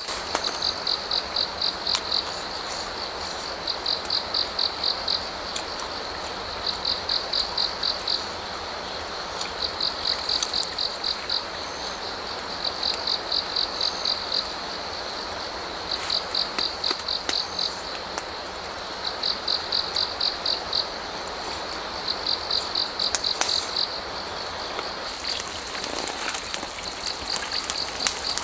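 A cricket chirping in trills of rapid, high pulses about a second and a half long, repeated roughly every three seconds, over the steady rush of a flowing stream.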